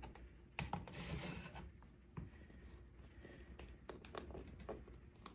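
Moluccan cockatoo crunching and shredding dried rose leaves with its beak: faint, irregular crackling and scratching, with a brief burst of rustling about a second in.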